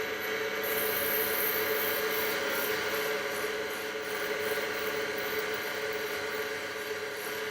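Wood lathe running steadily at about 2,000 rpm with a constant whine, while 180-grit mesh abrasive is held lightly against the spinning purpleheart pen blank, adding a steady sanding hiss.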